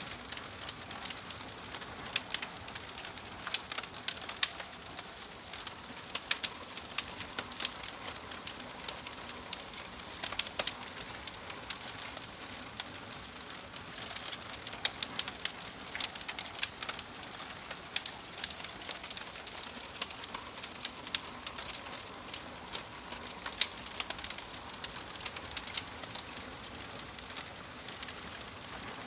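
Wood fire crackling: frequent sharp pops and snaps at irregular intervals over a steady soft hiss.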